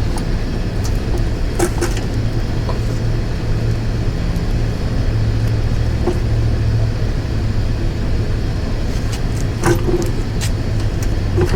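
A steady low hum, with a few light clicks and knocks scattered through it as motorcycle wiring and parts are pulled and handled by hand.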